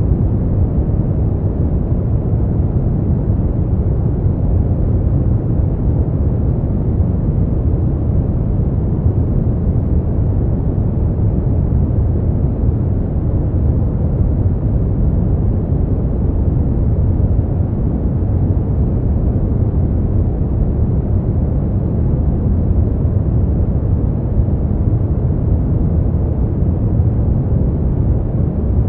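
Brown noise: a steady, deep, rumbling hiss with most of its energy in the low end, unchanging throughout.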